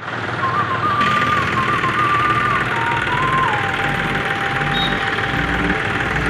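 Tractor engine running steadily, driving a mounted spray pump, with a thin wavering whistle-like tone above it that settles to a steady lower pitch about halfway through.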